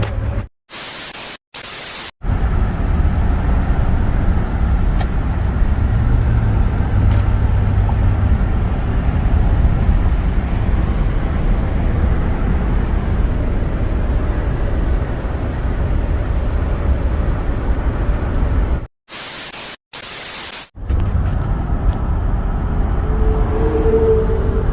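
Steady low rumble of a vehicle driving on the road, engine and road noise. Twice, about a second in and again near 19 seconds in, the rumble gives way to short bursts of even hiss like static.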